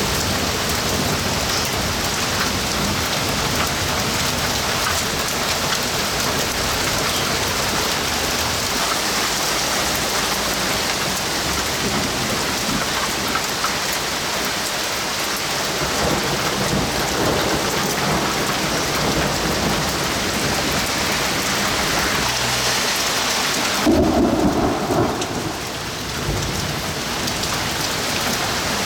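Heavy rain pouring steadily on surfaces during a thunderstorm, with thunder rumbling underneath. Near the end comes a louder, deep peal of thunder.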